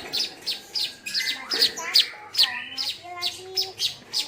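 Kept songbirds chirping: a fast series of sharp high chirps, about four a second, with lower gliding calls mixed in.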